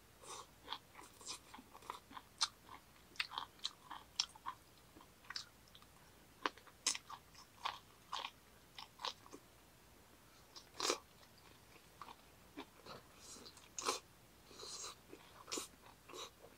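A person chewing and biting food close to the microphone: short, irregular crunches and wet smacks, several a second. The meal is grilled beef intestines with crisp minari (water dropwort).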